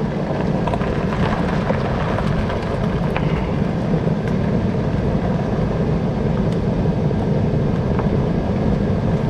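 Steady running noise of a Toyota Land Cruiser Prado 90, heavy in the low end, with a few faint short clicks or creaks over it, the kind of sound examined for a rear-suspension squeak.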